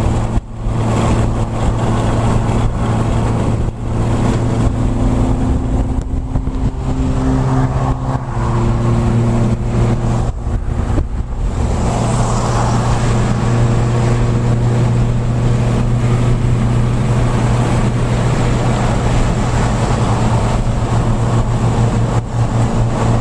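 Car engine and road noise while driving. A steady engine drone shifts pitch up and down a few times in the first half, then holds steady at cruise.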